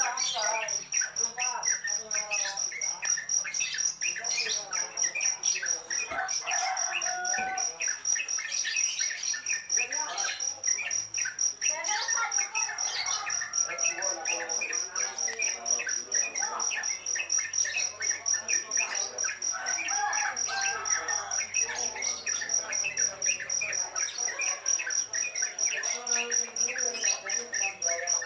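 Yellow-vented bulbul nestlings chirping in short, irregular calls, over a constant high, fast-pulsing cricket trill.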